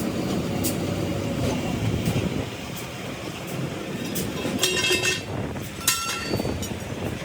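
Steady mechanical rumble with scattered metal clicks. About halfway through comes a short metallic ringing squeal, followed a second later by a sharp metal knock.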